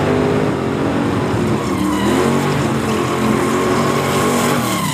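Drag car's engine revving hard at the start line, pitch rising and falling several times during a smoky burnout.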